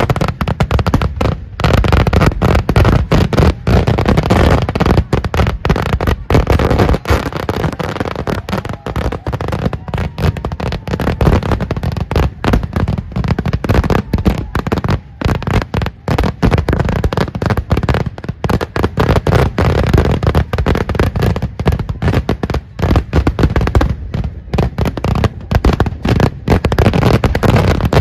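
Daytime festival fireworks (vedikkettu): a dense, loud barrage of firecracker bangs going off in rapid succession, almost without a pause, with a few brief lulls.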